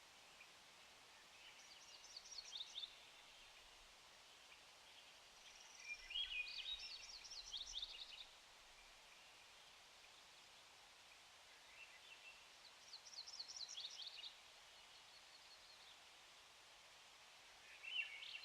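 A songbird sings four short, rapid twittering phrases a few seconds apart, the second the loudest. Beneath them runs the faint, steady rush of a mountain creek.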